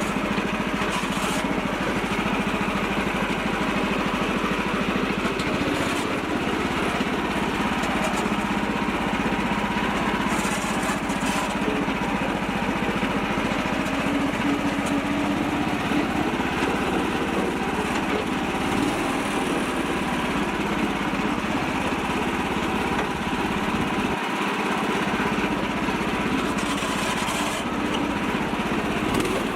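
A mini tractor's small engine running steadily, without pauses or changes in speed.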